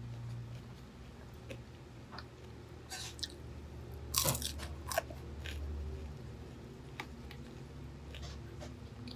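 Close-miked chewing and crunching of crispy fried food, with a cluster of sharper, louder crunches around the middle.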